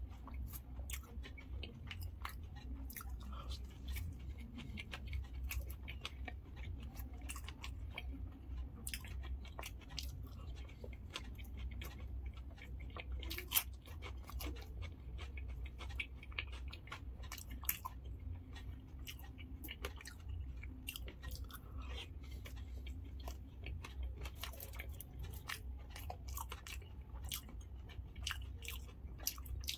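Close-miked chewing and crunching of dahi puri, crisp puffed puri shells filled with curd and topped with sev, with many small sharp crunches throughout.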